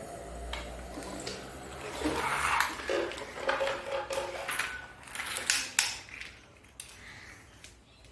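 Hard objects clattering and knocking: a run of sharp knocks and clicks, the loudest a little over five seconds in.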